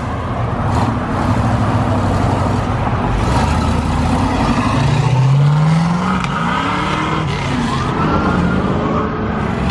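Car engines running loudly as vehicles pull away, with an engine revving up in a rising note about five seconds in and another rise and fall about a second later.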